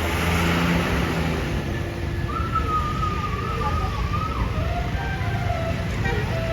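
Tour bus basuri air horn playing a wavering, tune-like run of notes over the low rumble of bus engines and traffic.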